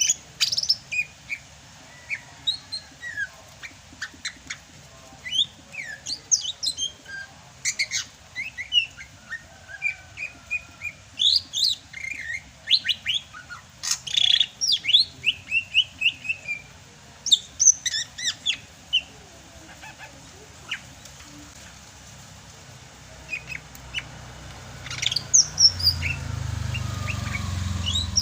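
Sumatran greater green leafbird (cucak hijau) singing in full voice: a varied run of quick whistles, chirps and sweeping notes with a brief pause past the middle. A low rumble rises near the end.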